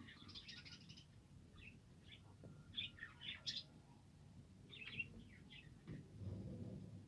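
Budgerigars chirping and twittering in short, faint calls, scattered through with a few louder chirps in the middle.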